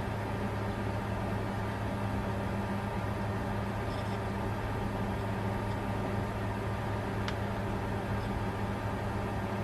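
Steady whir and hum of a bitcoin mining computer's cooling fans running while it mines, with a faint tick about seven seconds in.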